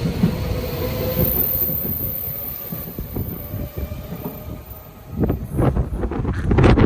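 A Tokyo Metro 13000 series train pulls away, a thin whine and a rumble that fade as it goes. From about five seconds in, strong wind gusts buffet the microphone.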